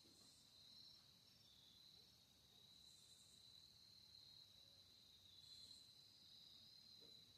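Near silence, with a faint steady high-pitched trill of insects.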